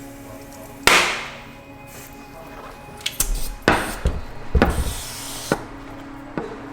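A sudden loud rush of noise about a second in that fades away, then a handful of sharp knocks and thuds over steady background music.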